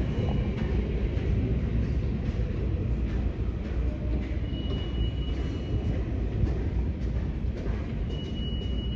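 New York City subway L train running through the station, a steady heavy rumble of the cars on the rails. A thin high whine rises above it twice, once around the middle and again near the end.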